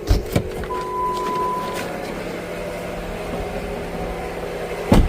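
Jeep Patriot engine idling, a steady hum carrying the noise from the accessory belt and pulleys that is traced to a failing belt tensioner. A brief steady beep sounds about a second in, and a loud thump comes near the end.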